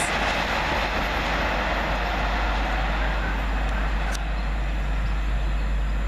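Class 800 train passing through at speed on the fast line without stopping: a steady rush of wheels on rail and air with a low rumble.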